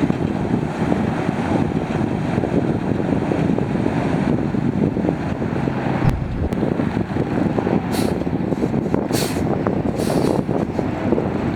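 Freightliner Cascadia tractor truck's diesel engine running with a steady rumble, with three short hisses of air from its air system about two-thirds of the way through.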